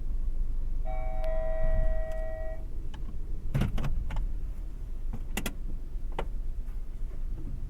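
Inside a kei car's cabin at an automatic car wash: a steady low rumble, with a held chime tone for about a second and a half near the start, then a few sharp clicks.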